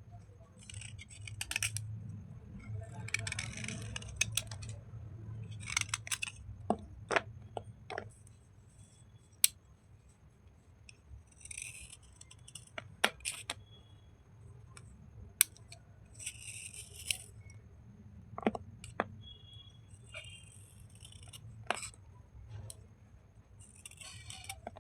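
Wet slate bars and chips being scrubbed and handled: short scratchy rasping strokes every second or two, with many sharp crunchy clicks and snaps between them, over a low steady hum.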